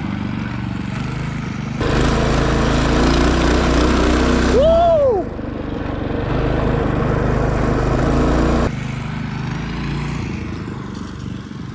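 Minibike's small engine running steadily, jumping abruptly louder about two seconds in and dropping back near nine seconds. A single rising-and-falling whoop comes about five seconds in.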